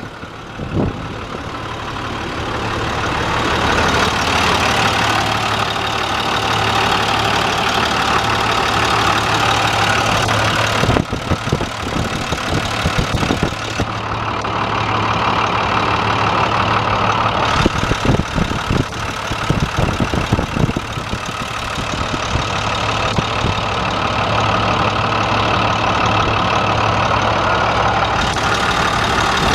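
International diesel engine running at idle. It grows louder over the first few seconds and has a few uneven stretches through the middle.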